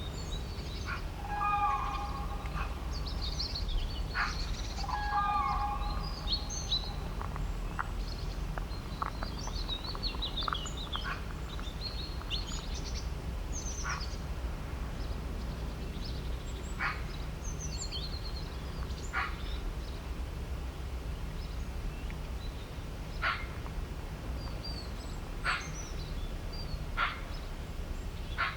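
Several birds chirping and calling, busy in the first half and then sparser, with short sharp calls every couple of seconds. A few lower whistled notes come early on, and a steady low rumble runs underneath.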